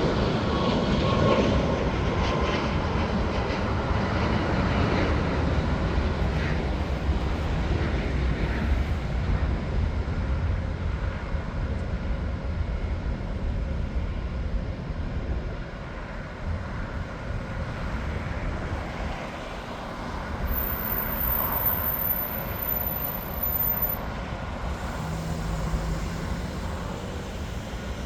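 Jet airliner engines, a steady rumble with a faint whine that falls slightly in the first couple of seconds, fading gradually as the aircraft moves away.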